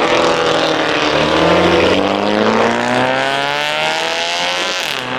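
A car engine accelerating hard, its pitch climbing steadily for about four seconds, then cutting off suddenly near the end.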